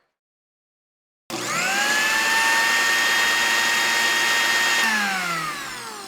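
A high-pitched electric motor whine starting abruptly, spinning up quickly, running steadily, then winding down in pitch near the end, like a power drill.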